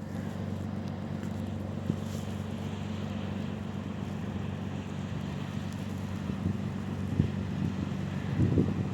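A river motor ship's engine humming steadily. Wind buffets the microphone near the end.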